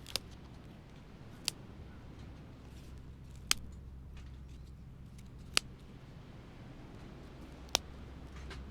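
Five sharp, short clicks about two seconds apart over a low steady rumble.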